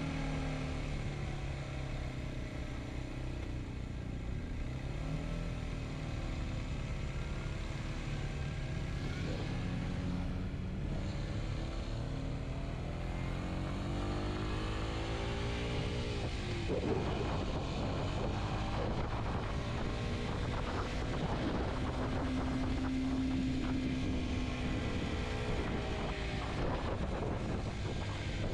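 Kawasaki Z125's single-cylinder four-stroke engine running under way, its pitch rising and falling with throttle and gear changes, with a sharp climb in revs about sixteen seconds in.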